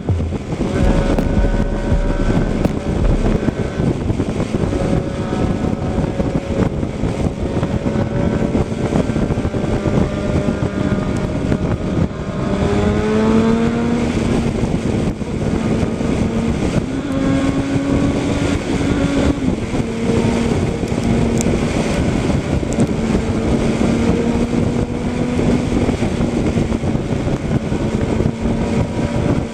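A vehicle engine running under a steady rush of wind and road noise, its pitch climbing about twelve seconds in as it speeds up, then settling and shifting a few more times.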